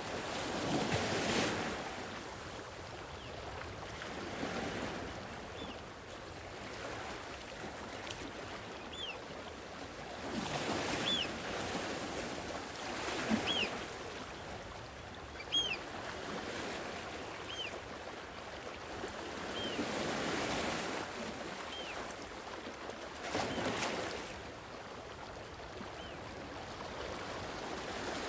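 Gentle sea waves washing on a shore, swelling and receding every few seconds. A short high chirp repeats about every two seconds through the middle.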